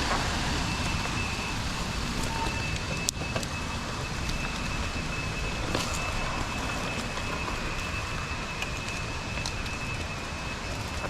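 Steady rushing of a waterfall, with wind buffeting the microphone underneath. A faint steady high tone runs through it, and a few faint clicks stand out.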